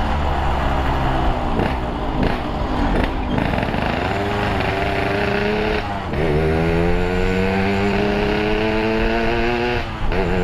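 Yamaha RX-King two-stroke single-cylinder engine through a Boban C33 aftermarket exhaust. Revs drop away about two to three seconds in, then climb under acceleration, with a brief dip and fresh climb for a gear change about six seconds in and again near the end.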